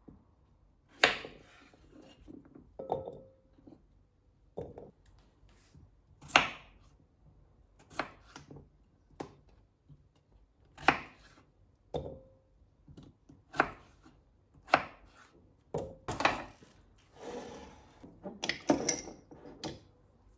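Kitchen work: a string of separate sharp knocks and clatters from utensils, dishes or a board, irregularly about one every second or so, with a short scraping stretch and a quick cluster of knocks near the end.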